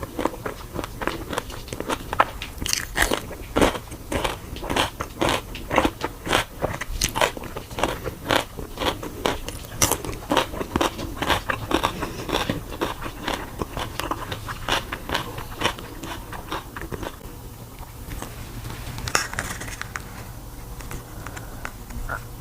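Crunchy food being bitten and chewed: a fast, crisp run of crunches, several a second, that thins out after about seventeen seconds.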